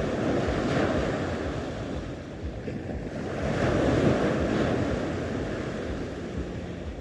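Sea waves washing onto the shore, the surf noise swelling twice, about a second in and again around four seconds, with wind buffeting the microphone.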